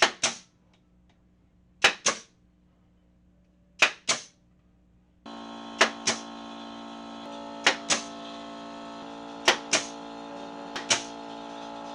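Pneumatic nail gun firing seven times, about every two seconds, each shot a sharp double crack. About five seconds in, a steady motor hum starts running underneath.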